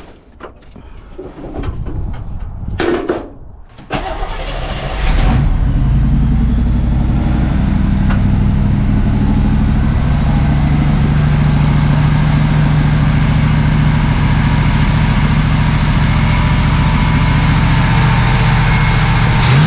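A 1979 Camaro Z28's small-block Chevy V8 starts about four seconds in, then settles into a steady idle on its freshly rebuilt Quadrajet carburetor. Before the start there are only quieter, irregular handling noises.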